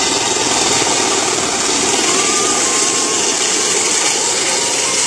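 Helicopter running close by: a loud, steady rush of turbine and rotor noise with a strong high hiss.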